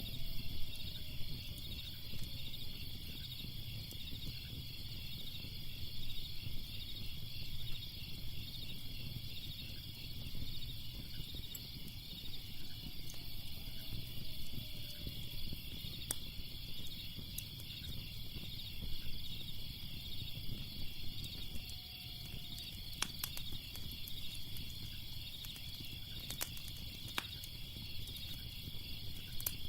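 Insects, cricket-like, chirping in a dense, steady, rapidly pulsing chorus over a low fire rumble, with a few sharp crackles of the fire in the second half.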